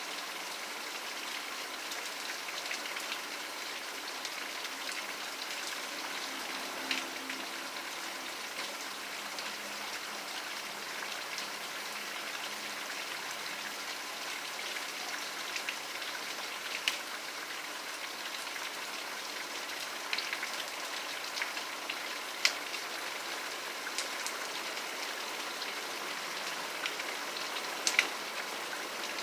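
Steady rain falling as an even hiss, with now and then a single louder drop tapping a surface.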